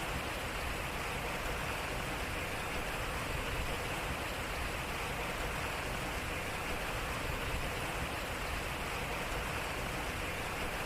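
Water splashing and running off a turning water wheel: a steady, even rush of flowing water.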